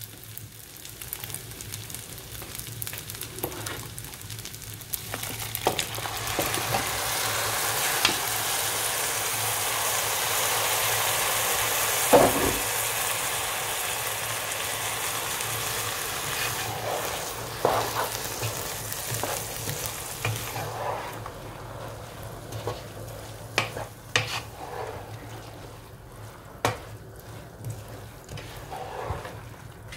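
Toasted basmati rice sizzling in a hot pan as a wet spiced vegetable-and-tomato mixture is added: the sizzle swells, is loudest around the middle with a single sharp knock, then dies down. A wooden spoon stirring and knocking against the pan follows near the end.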